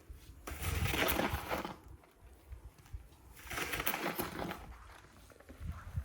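Snow shovel scraping and pushing through packed snow, two long scrapes a couple of seconds apart.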